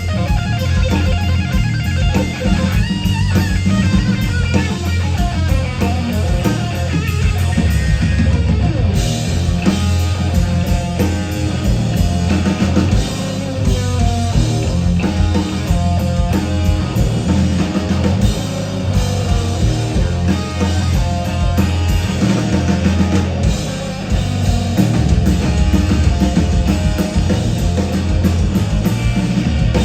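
Rock band playing an instrumental passage: electric guitar over bass and a drum kit, at a steady beat.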